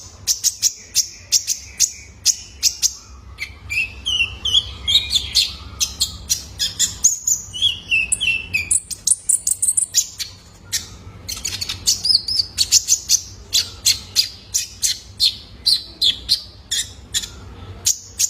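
Young male kolibri ninja (konin) sunbird singing: a fast run of sharp, high chirps, several a second, with short warbled trills mixed in. A faint steady low hum lies underneath.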